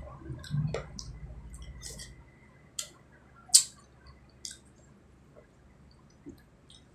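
Close-miked eating: chewing for the first couple of seconds, then scattered wet mouth clicks and lip smacks, one sharp smack about three and a half seconds in the loudest.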